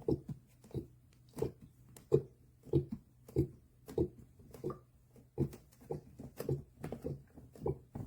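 A small dog eating or drinking noisily at a gravity food and water feeder, with wet mouth sounds coming in a steady rhythm of about three every two seconds.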